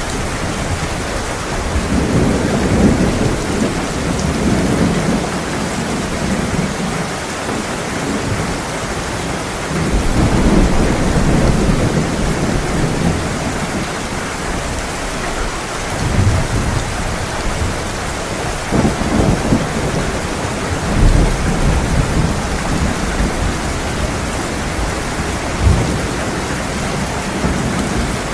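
Heavy rain pouring steadily, with rolls of thunder rumbling low several times, the strongest swells around 2, 10, 19 and 21 seconds in.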